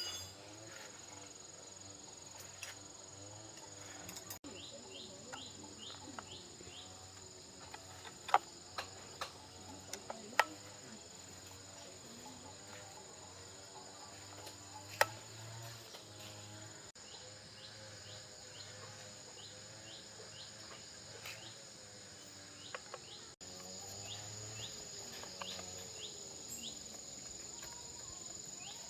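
Steady high-pitched cricket chorus, with a handful of sharp clicks scattered through it; three are much louder than the rest.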